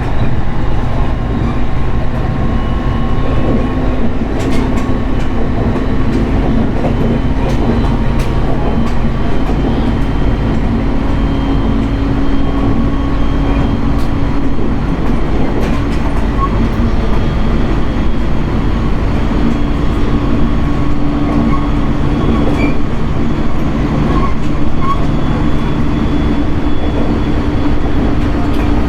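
JR East 701 series electric multiple unit running at speed, heard from inside the car: a steady rumble with a held hum and a few sharp clicks from the wheels over the rails.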